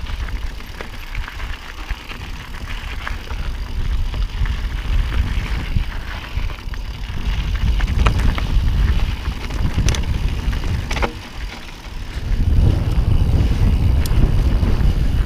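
Mountain bike ridden fast down a dirt and rock trail: a steady tyre rumble with wind buffeting the microphone, and a few sharp clicks and rattles from the bike over bumps. The wind rumble grows louder about three-quarters of the way through.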